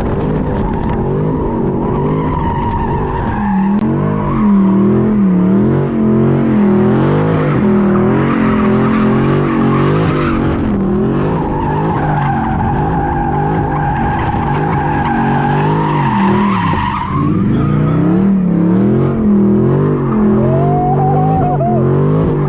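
A car sliding: the engine revs high and rises and falls over and over while the tires squeal, the squeal steadiest through the middle of the run.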